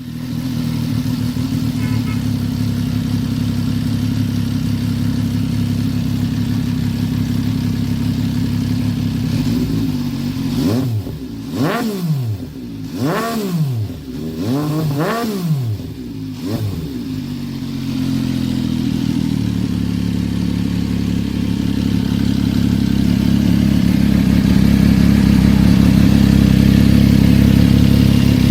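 Suzuki GSX-R 1000 K6 inline-four engine idling steadily, then revved three times in quick succession about halfway through, each rev rising and dropping straight back to idle. It then settles back to a steady idle that grows louder near the end.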